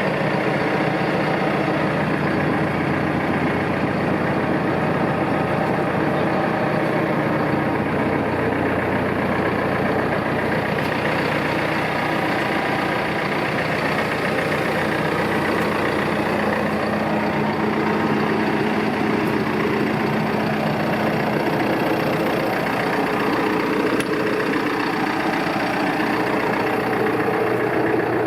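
The diesel engine of a 2012 Landini Power Mondial 4WD tractor idling steadily.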